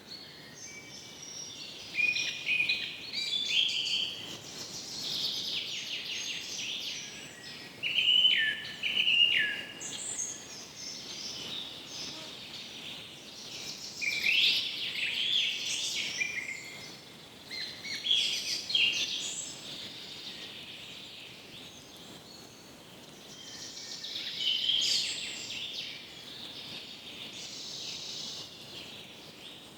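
Birds calling and chirping in clusters of short, gliding notes that come every few seconds, over a faint steady background hiss.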